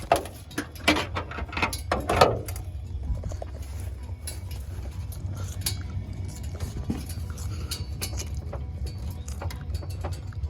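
Turbo K-series Honda Civic running with a steady low drone, with a few loud clunks in the first couple of seconds and irregular clicking after. Something in the drivetrain has just broken, which the driver suspects is inside the transmission.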